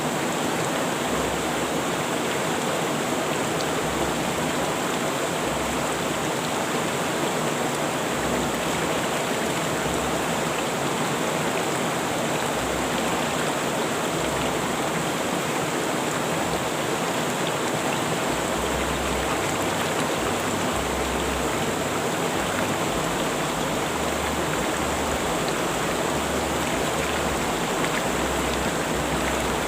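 Rushing river water, flowing with a steady, unbroken rush.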